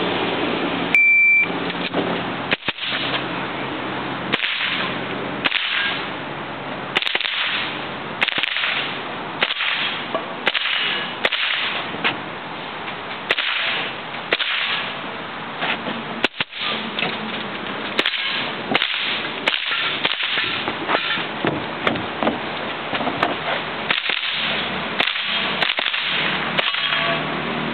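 A steady string of .22 LR rifle shots, about one a second, with a short beep about a second in.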